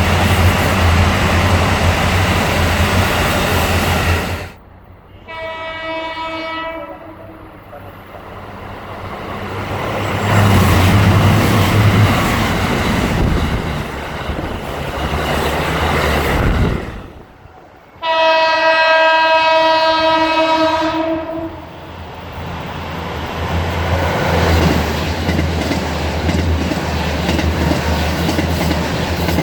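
JR Central KiHa 85 series diesel railcar passing through a station, its Cummins diesel engines running under a low drone with wheel clatter. Its horn blows twice, a shorter blast about five seconds in and a longer, louder one about eighteen seconds in, each followed by the train running past.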